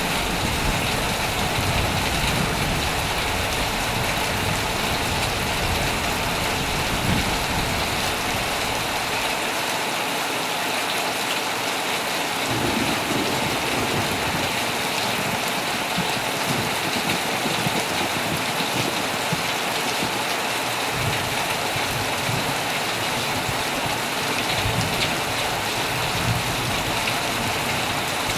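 Heavy rain falling steadily on an old tent: a dense, even hiss of rain. A low rumble sits under it, strong at first, dropping away for several seconds in the middle and returning near the end.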